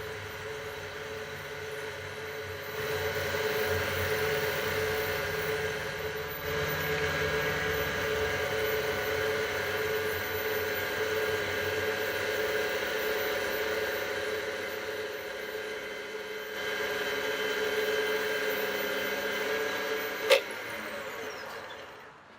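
Wood lathe running steadily with its motor whine while 240-grit mesh sandpaper hisses against a spinning purpleheart pen blank, the hiss swelling in three stretches as the paper is pressed on. About twenty seconds in a click sounds and the lathe winds down.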